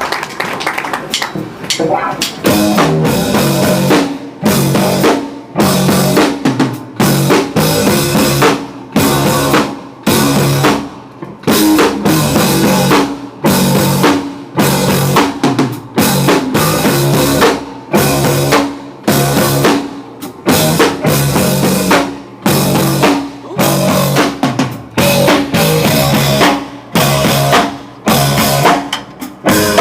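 Live band music dominated by a loud drum kit, with bass drum and snare hits. The band plays in a stop-start pattern, cutting out briefly about once a second.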